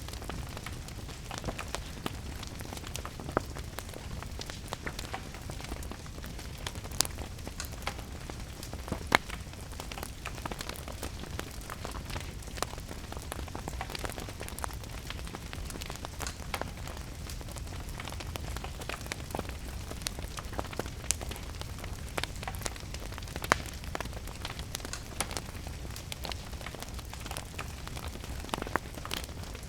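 Wood fire crackling, with scattered sharp pops and a few louder cracks, over a steady low rumble and the even hiss of rain.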